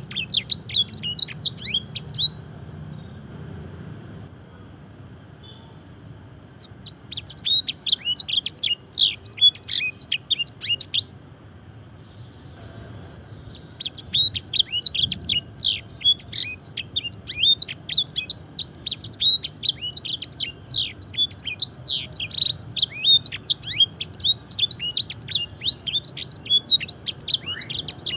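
Domestic canary singing in rapid, high, chirping trills of quick down-slurred notes, in the blackthroat-style phrasing used for song training. There is one short phrase, a pause, a second phrase from about 7 to 11 seconds, another pause, then an unbroken run of song from about 13 seconds on.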